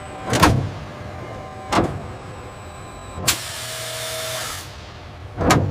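Motorised machinery moving: three short, sharp whooshes about a second and a half apart, then a few seconds later, with a longer hissing swell and a low hum between them.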